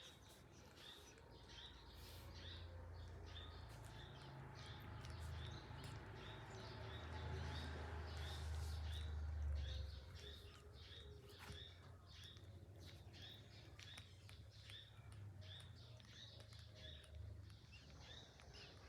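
Faint high chirps repeating steadily about twice a second, over a low rumble that builds and then cuts off suddenly about ten seconds in.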